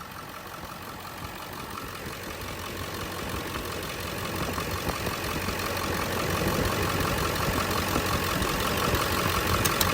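Ford 7.3 L Power Stroke turbo-diesel V8 idling steadily, growing gradually louder. The high-mileage stock engine is running with almost no blow-by, only steam at the oil filler.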